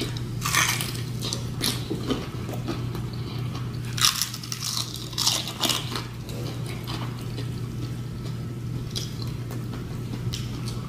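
Sauce-coated crispy fried chicken being bitten and chewed close to the microphone: crunches come and go in clusters, loudest about four to five seconds in, over a steady low hum.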